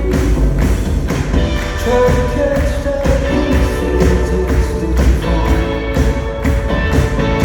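Live pop band playing a song with a steady beat, a singer's voice carrying the melody over it.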